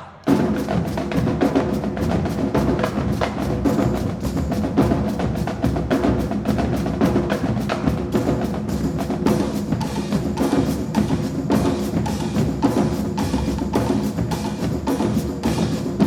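High school marching drumline playing a fast, dense cadence of rapid drum strokes, kicking in sharply right after a brief pause.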